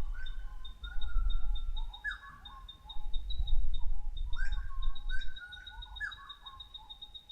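Several wild birds calling together: a rapid, even run of high chirps at about five a second, with whistled notes and short repeated lower calls over it. A low rumble runs underneath.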